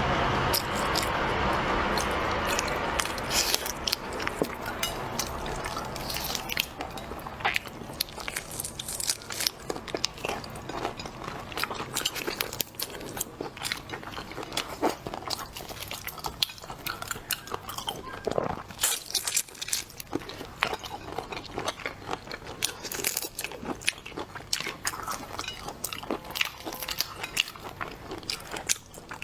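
Close-miked eating of seafood: repeated biting, crunching and chewing, with many short sharp crackles. It opens with a few seconds of steady noise before the bites take over.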